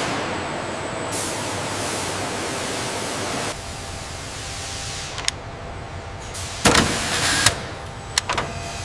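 Steady hiss of industrial machinery noise that drops about three and a half seconds in, followed by several sharp mechanical clanks and knocks, the loudest with a short hissing burst about seven seconds in.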